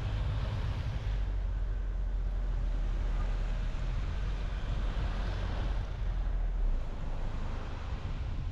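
A car driving on the road: steady tyre and road noise over a deep low rumble, with the hiss swelling and fading once about two thirds of the way in, and the rumble easing near the end.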